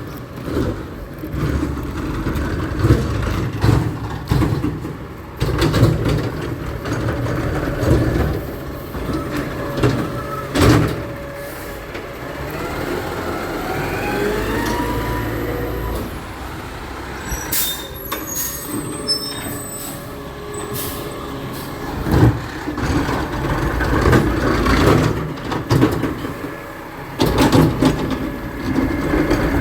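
Garbage truck working: its engine running, with repeated clanks and knocks, and a whine that rises and falls about halfway through.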